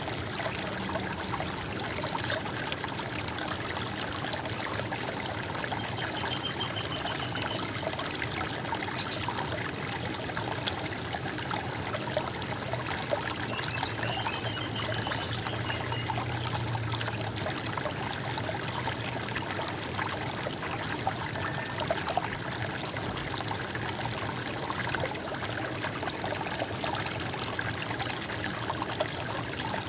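Running water trickling and splashing steadily, with a couple of faint, short bird chirps about six and fourteen seconds in.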